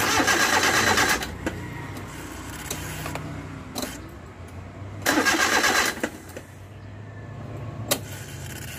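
Starter of a Suzuki Multicab's K6A three-cylinder engine cranking in two short bursts, about a second each and a few seconds apart, without the engine catching, then a sharp click near the end. The engine gets no fuel: none comes from the disconnected fuel supply line, pointing to the fuel pump or its power supply.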